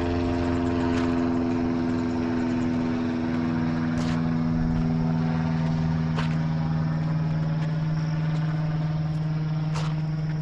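An engine running steadily, its hum dropping in pitch about three seconds in, with a few sharp clicks over it.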